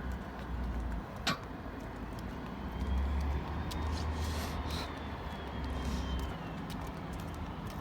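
Low, steady rumble of street traffic, with a single sharp click about a second in.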